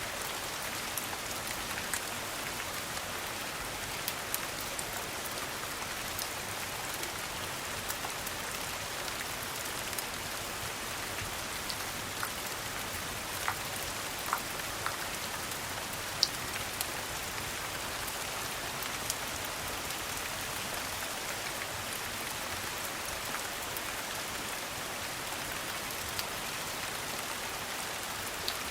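Steady rain falling as an even hiss, with scattered sharp clicks and pops through it.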